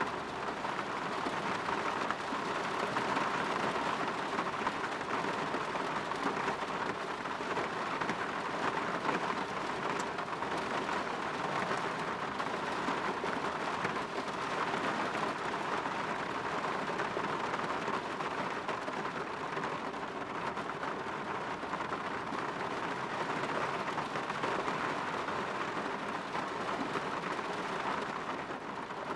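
Steady rain falling on a window, a constant even patter.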